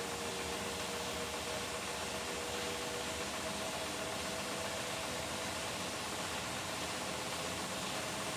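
Beko WTK104121W washing machine running: a steady whirring hum with a faint tone that shifts slightly in pitch, without pauses.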